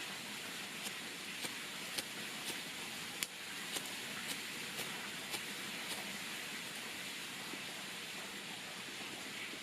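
Wood campfire crackling over a steady hiss, with sharp pops about once or twice a second that thin out after about six seconds.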